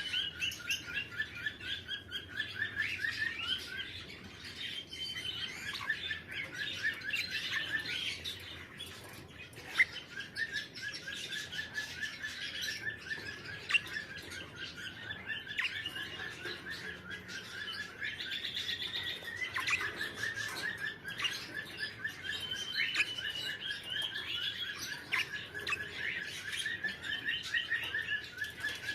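Red-rumped parrots chirping continuously in a fast run of short repeated notes, with two sharp clicks along the way.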